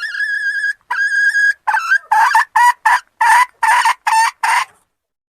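Hen calling: two drawn-out, steady high notes, then a quick run of about eight short, harsh clucks at roughly two a second, stopping abruptly about a second before the end.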